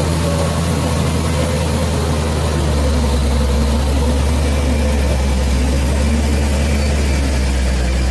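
Bulldozer's diesel engine running steadily, getting slightly louder and deeper about two and a half seconds in.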